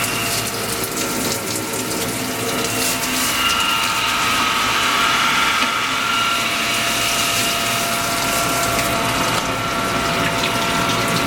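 Reichmann ski tuning machine running with its water pump on, water pouring from the hose into the recirculating pan: a steady mechanical hum with several high whining tones over the rush of water.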